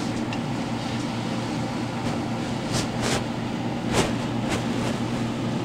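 Pork chop frying in oil in a stainless steel pot: a steady sizzle under a low hum, with a few sharp pops about three and four seconds in.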